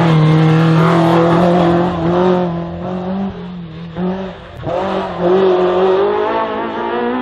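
Slalom race car engine at high revs, holding a steady note, easing off and quieter for a couple of seconds, then revving up sharply again as it accelerates between cones.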